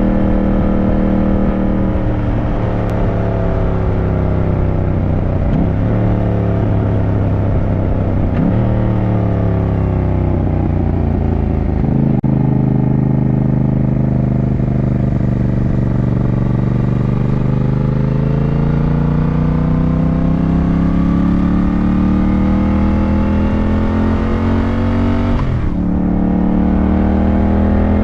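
Yamaha motorcycle engine heard on the ride: the engine note falls away with a few brief gear-change breaks over the first several seconds, runs low and steady in the middle, then climbs steadily under acceleration until an upshift near the end drops the pitch.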